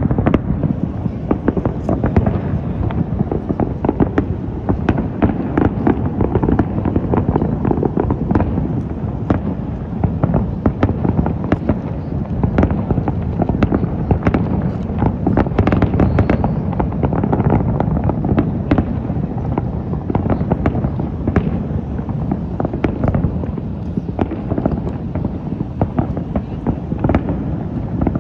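Aerial fireworks show heard from a distance: a dense barrage of shell bursts whose booms run together into a continuous rumble, with many sharp cracks on top.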